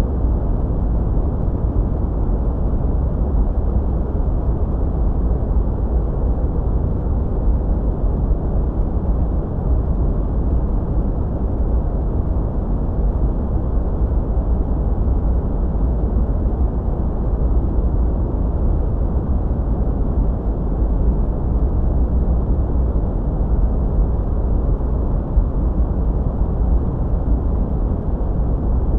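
Continuous sleep noise: a steady, deep, muffled hiss with its weight in the bass and no treble, unchanging throughout.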